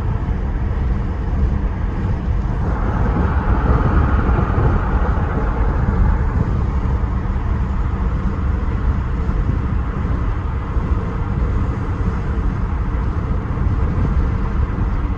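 Steady low road rumble of a moving vehicle, growing louder for a few seconds about three seconds in.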